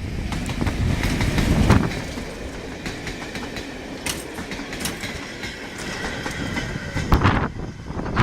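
Train of travelling post office coaches passing, wheels clattering over the rail joints, with two heavy thuds about two seconds in and near the end, and a faint high squeal from the wheels.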